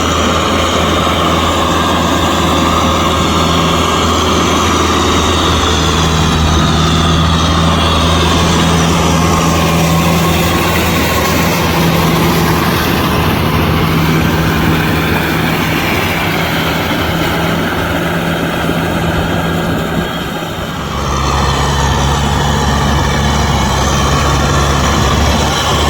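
Kubota M6040SU tractor's diesel engine running steadily while it drives a rotavator through a muddy field. About twenty seconds in the sound dips briefly, then the engine settles to a steady, lower note.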